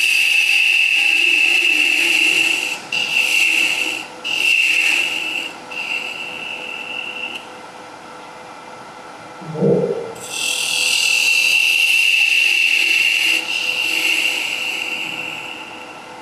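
A turning tool cutting into wood spinning on a lathe, with a steady high scraping tone, in several spells as the tool is brought on and off the work, while the end of a humming top is cleaned up to remove the steb-centre hole. There is a short thump in the pause before the last long spell of cutting.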